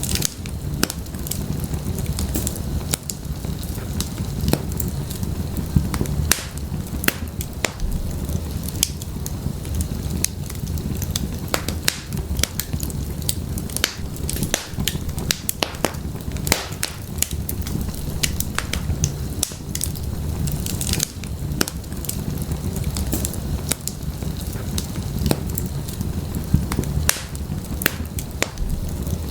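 Fire in a fireplace crackling: irregular sharp pops and snaps, several a second, over a steady low rumble of the flames.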